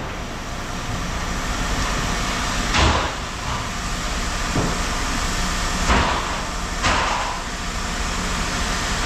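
Steady engine hum, with a few sharp clanks of scrap metal being handled.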